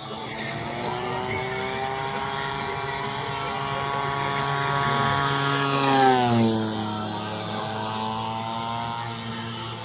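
Radio-controlled model airplane's engine in flight, climbing in pitch and loudness as it closes in, then dropping sharply in pitch as it passes by about six seconds in, and running on at the lower pitch.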